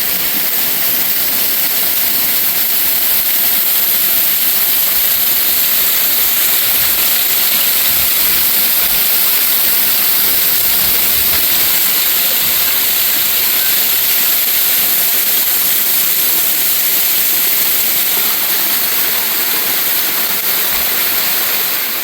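Waterfall flowing strongly, a loud, steady rush of falling water.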